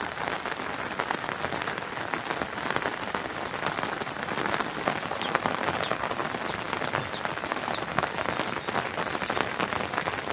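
Steady rain falling, with a dense scatter of separate drop hits close by.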